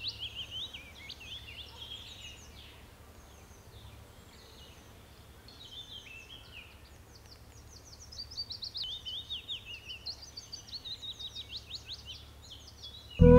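Songbirds singing in phrases of quick, repeated down-slurred notes, loudest at the start and again a little past halfway. Music with a flute comes in suddenly at the very end.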